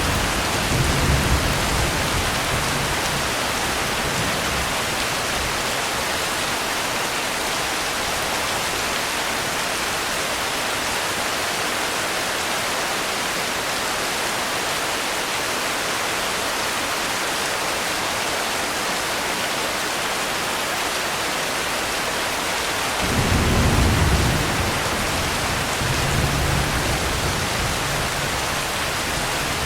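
Steady rain, a constant even hiss, with a low rumble of thunder fading at the start and another rolling in about 23 seconds in and rumbling on for a few seconds.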